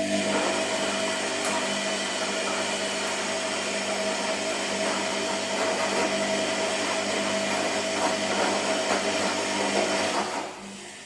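Washing machine motor running with a steady whine over a broad mechanical noise, cutting off about ten seconds in.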